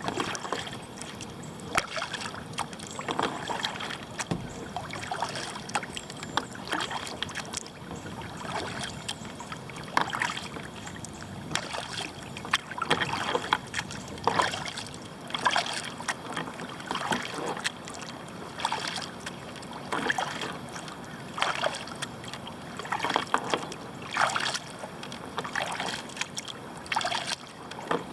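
Kayak paddle strokes dipping into and pulling through flat lake water: short splashes with dripping, about one a second, alternating sides in a steady rhythm.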